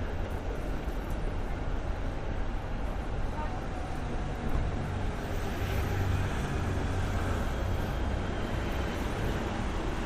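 City street ambience on a rainy, windy day: a steady low rumble of wind and traffic under a constant wash of noise, briefly growing louder about halfway through as something passes.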